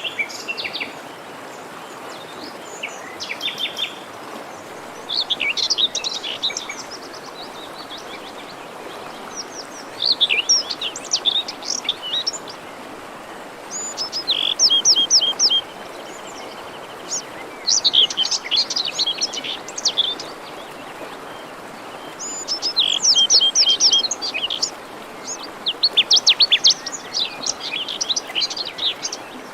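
Songbirds singing, a phrase of trills and chirps every few seconds, over the steady rush of a forest stream.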